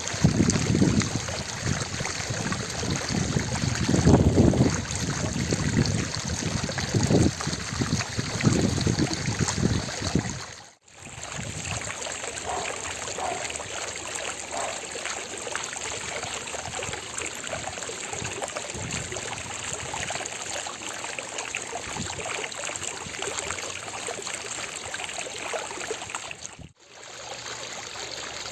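Fountain water splashing and running in a steady rush. Heavy low rumbles come and go through the first ten seconds or so. The sound drops out for a moment about eleven seconds in and again near the end.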